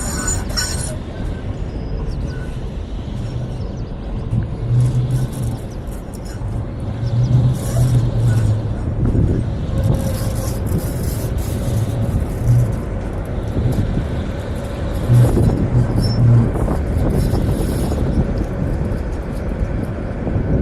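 Vario LF2R.E low-floor tram running along its track: a steady rumble of wheels on rails, with a low hum from the drive coming and going and scattered higher hiss and clicks.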